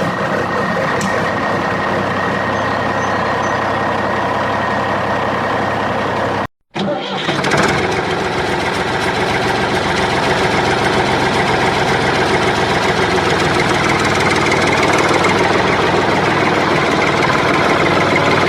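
Steady engine running sound with a low idling rumble. It cuts out completely for about half a second around six and a half seconds in, then carries on as before.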